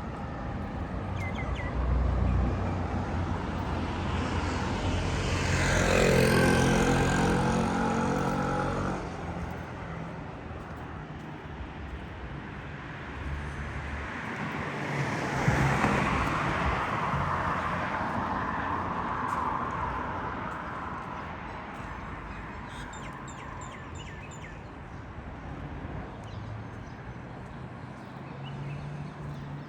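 Road traffic passing close by. A vehicle with a pitched engine hum goes past about six seconds in. A second vehicle passes with mostly tyre noise about fifteen seconds in, over a steady low rumble of traffic.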